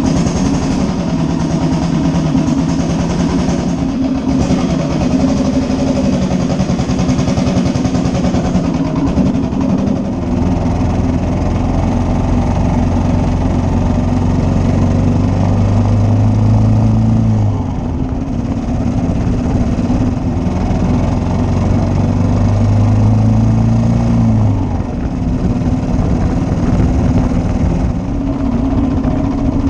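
1941 Matchless G3L's 350 cc single-cylinder engine running steadily for about ten seconds, then pulling away: the revs climb twice, each time dropping sharply at a gear change.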